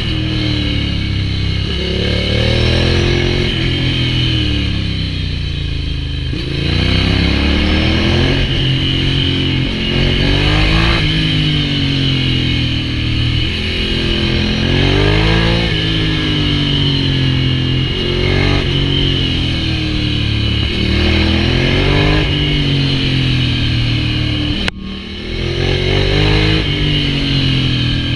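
Ducati Hypermotard 796's air-cooled L-twin engine through an SC-Project full exhaust, its pitch repeatedly rising as it revs up and dropping back. There is a brief break about 25 seconds in.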